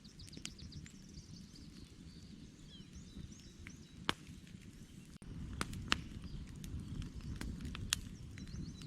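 Campfire burning with a steady low rumble and a few sharp crackles and pops from the burning wood, several of them in the second half. Birds chirp faintly in the background.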